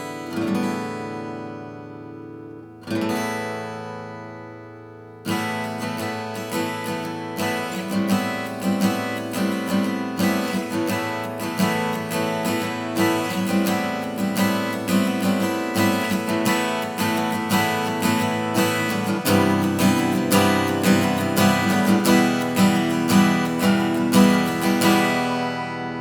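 A 1974 K.Yairi YW-800G six-string acoustic guitar with Brazilian rosewood back and sides being strummed. Three single chords are left to ring, then steady rhythmic strumming follows with a chord change about two-thirds of the way through, and the last chord rings out at the end.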